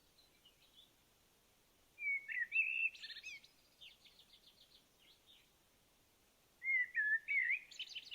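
A songbird singing two warbled phrases, the first about two seconds in running on into a quick series of short notes, the second near the end.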